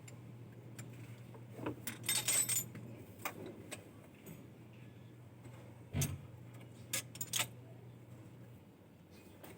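Metal tools and engine parts clinking and rattling as an engine is being taken apart, in scattered clicks with a busier cluster about two seconds in. A steady low hum runs underneath and stops near the end.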